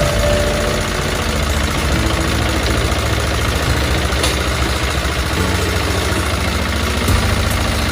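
Mini tiller engine running steadily on a test run after its gearbox was rebuilt with a new bearing in place of a cracked one.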